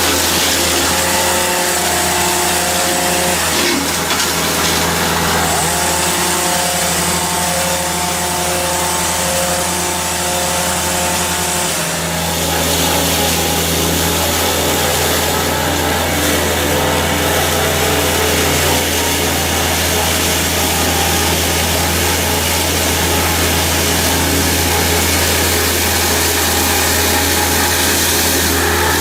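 Heavy tree-felling machinery running steadily: a low engine hum, with a higher steady whine for roughly the first half that shifts about twelve seconds in.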